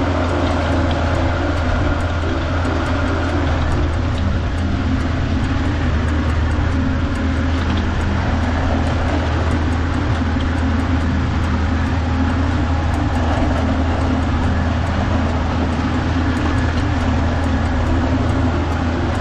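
Kubota farm tractor's diesel engine running steadily under load while rotary tilling a rice paddy, with a deep steady hum and a slightly wavering engine note.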